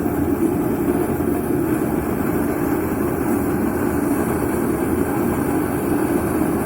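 Heat cannon running with its open flame on, a steady, even rushing noise that holds unchanged.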